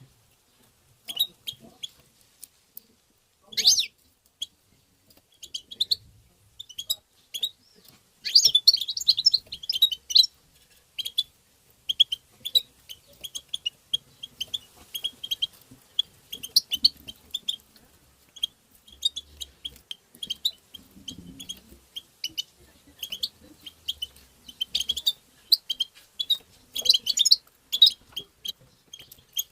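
European goldfinch giving rapid, twittering call notes: a steady string of short, high chirps with denser flurries about a third of the way in and again near the end.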